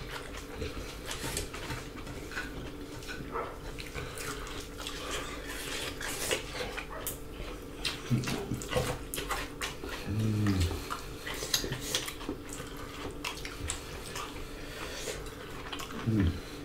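Close-miked eating sounds: wet chewing and mouth clicks of rice and salad eaten by hand, with fingers working food on plates. Three brief low hums come about eight, ten and sixteen seconds in.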